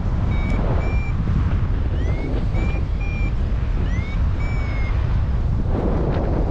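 Strong wind buffeting the microphone, with a paragliding variometer's short high beeps over it, some sliding up in pitch: the vario's climb tone, signalling the glider is rising in lift. The beeps pause near the end while the wind noise carries on.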